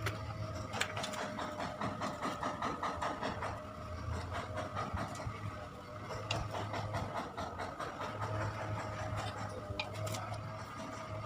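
Mechanical clicking, rapid and regular, over a steady whine, with a low hum that comes and goes several times.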